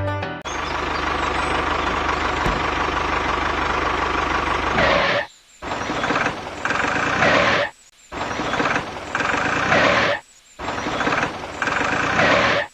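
A small motor-driven machine running with a steady, noisy whir, in four takes cut together with short silences between them.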